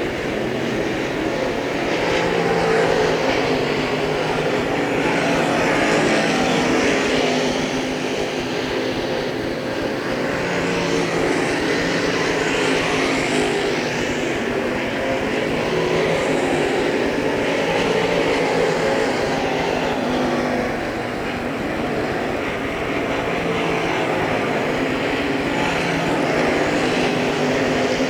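Crate late model dirt race cars running warm-up laps together, their V8 engines swelling and fading every few seconds as the cars pass and circle the track.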